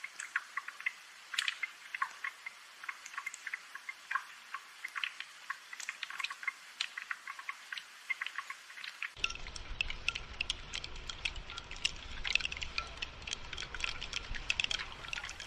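Rain dripping and pattering, a dense irregular run of small sharp drops. About nine seconds in, a low steady rumble comes in suddenly underneath.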